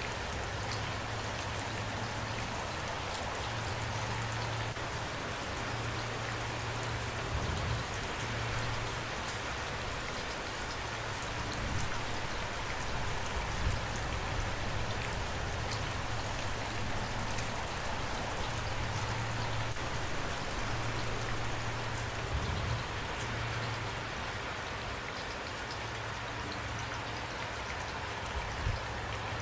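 Steady rain falling, an even hiss with scattered drop ticks, and a low hum underneath that fades in and out every few seconds.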